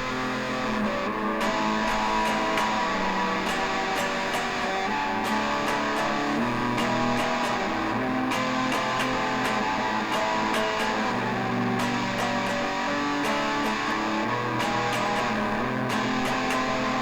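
Instrumental guitar music with no singing: a break in a rock song, with the guitar playing steadily on an even beat.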